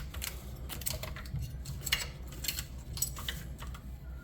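Small metal parts and tools clicking and clinking irregularly while the steering of an RC truck is refitted by hand.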